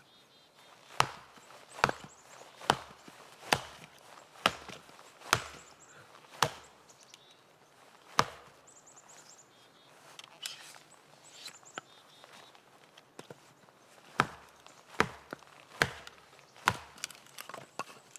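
Hatchet chopping into wood, a sharp chop about once a second: a run of seven strokes, one more a little later, then five more near the end.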